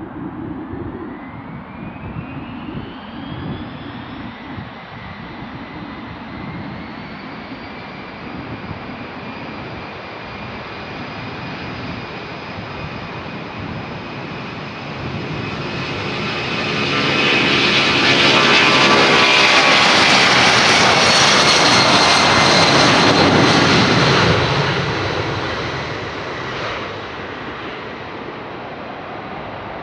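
Boeing 757-24APF freighter's twin jet engines spooling up with a rising whine, then the jet going by at full takeoff power, loudest in the middle of the stretch, with a sweeping, phasing rush as it passes. The rush fades away near the end.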